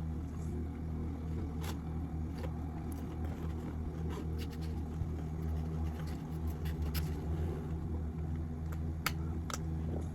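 A steady low mechanical hum, with scattered light clicks and scrapes from handling a fast-food meal and its packaging.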